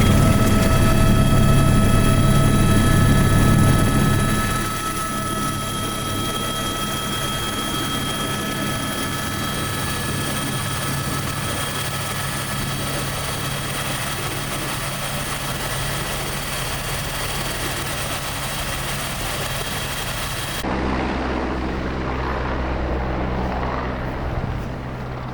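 Helicopter running steadily, its rotor hum and turbine whine continuous with several steady high tones. The sound drops in level about four seconds in and changes abruptly about 21 seconds in, where the high whine cuts out.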